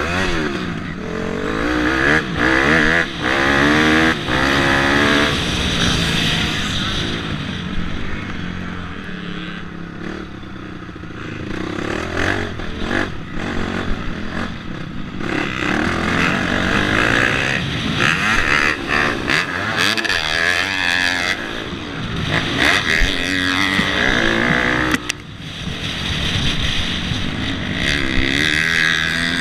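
Dirt bike engine revving up and down over and over, its pitch rising and falling with throttle and gear changes.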